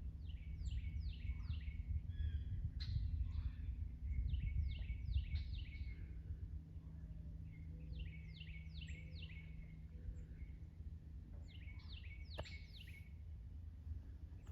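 A songbird singing, repeating a phrase of four or five quick down-slurred whistled notes about four times, over a steady low rumble of wind noise.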